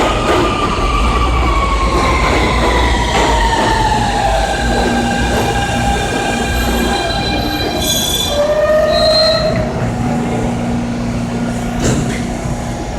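R160 Siemens subway train braking into the station: its electric propulsion gives a whine that falls steadily in pitch over the first few seconds and then holds, over a heavy low rumble from the wheels and track. Brief high squeals sound a little past the middle.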